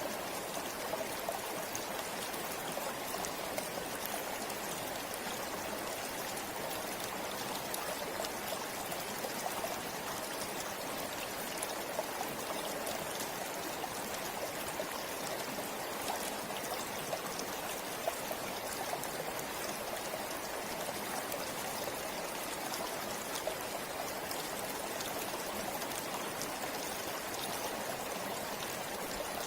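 River water flowing steadily over stones, a continuous rushing with small splashes and trickles.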